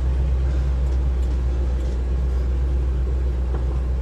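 1973 Cadillac Eldorado's 500 cubic inch V8 running at a steady idle, a low even rumble.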